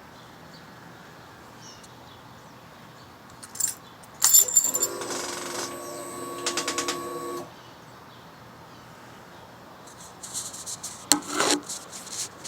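Ignition key jangles and is turned on a 2011 Suzuki GSX-R600. A steady hum with a run of rapid clicking follows for about three seconds before stopping, and keys jangle again near the end. The owner traced the key-on clicking to a sticking exhaust servo, which also set the FI light.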